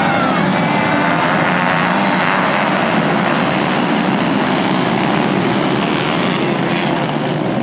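Several small 110 cc racing motorcycle engines running at high revs, a dense, steady engine noise.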